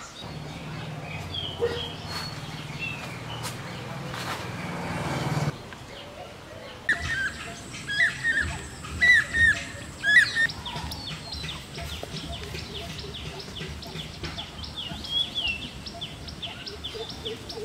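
Birds chirping, with one bird repeating a short loud call several times about halfway through. A low steady hum under the first third cuts off suddenly.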